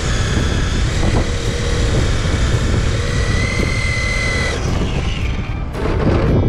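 Electric motor of a Losi 22S RC drag car whining at high revs during a tire-warming burnout; the pitch wavers, then holds steady and cuts off about four and a half seconds in. A rush of noise follows near the end.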